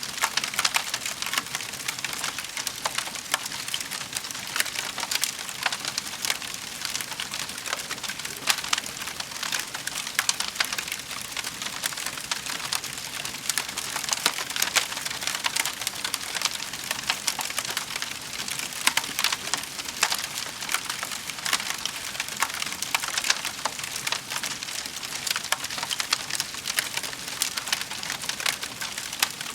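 Fire crackling in a fireplace: a steady hiss with many small pops and snaps throughout.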